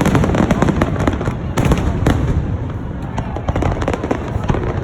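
Fireworks display: a rapid, dense string of bangs and crackling pops over a continuous low rumble of shell bursts echoing.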